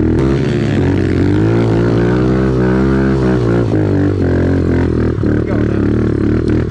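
Off-road vehicle engine running under throttle, its pitch swelling and dipping as it is revved.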